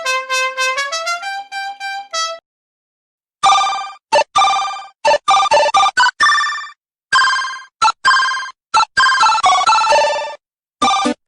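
Short electronic jingles of the ringtone kind. First comes a brief melody whose notes slide up and down for about two seconds. After a short gap comes a fast run of clipped, repeated notes in quick groups.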